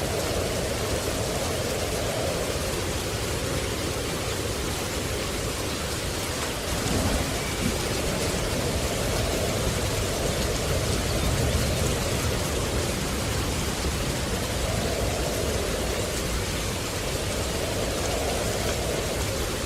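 Steady rushing noise of falling water, like heavy rain, over a continuous low rumble, with a mid-pitched layer that swells and fades slowly every few seconds.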